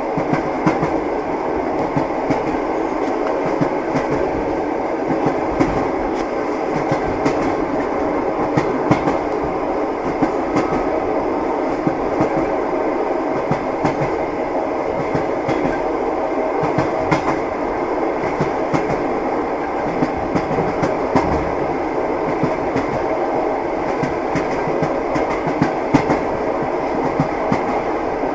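Train wheels running over the rails, heard from inside a passenger compartment: a steady rumble with frequent sharp clacks of the rail joints.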